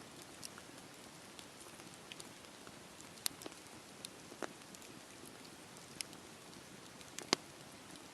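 Campfire burning: a soft steady hiss with scattered sharp crackles and pops from the burning wood, the loudest pop a little after seven seconds in.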